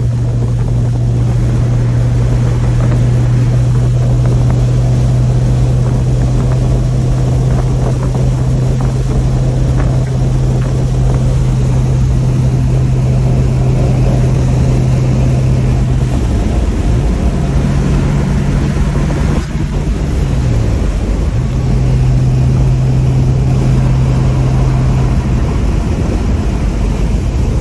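1965 Pontiac GTO's engine droning steadily as the car cruises down the highway. Past the middle its pitch dips twice, briefly, and comes back up.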